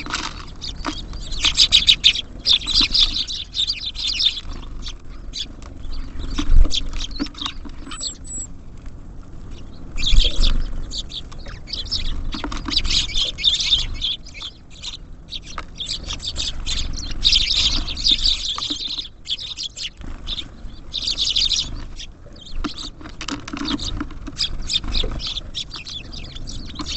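Small songbirds at a bird feeder chirping in repeated bursts, over a constant patter of sharp ticks and taps as they peck and hop on the feeder. Twice, about six and ten seconds in, there is a louder thump.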